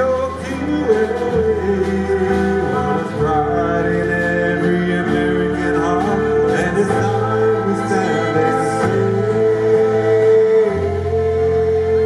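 Live band playing a slow song, with a singer holding long notes over the instruments.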